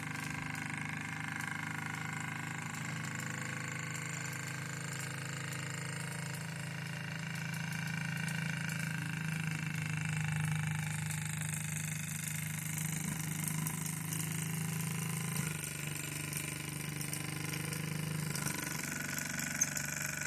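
A homemade live-steam model engine (a Polly) running steadily under steam from its own boiler. One sharp tick sounds near the end.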